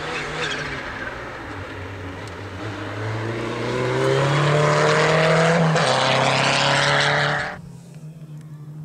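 A rally car's engine at full throttle, its pitch climbing steadily as the car comes closer and grows loud, with a heavy rush of tyre and road noise. There is one gear change about six seconds in. Near the end the sound cuts off abruptly.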